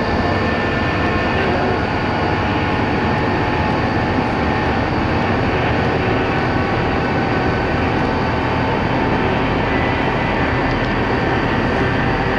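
Four-wheel-drive vehicle driving steadily: the engine and drivetrain rumble with a few faint steady whining tones over the road noise.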